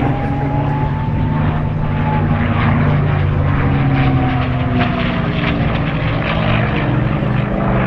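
Propeller-driven piston aircraft engine droning loudly and steadily overhead in a display pass, its pitch drifting slowly as it moves.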